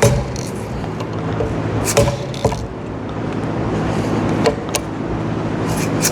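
Dead blow hammer striking the crescent wrench on the paint pump's compression valve, about five sharp blows, mostly in pairs, to tighten it down. A steady low hum runs underneath.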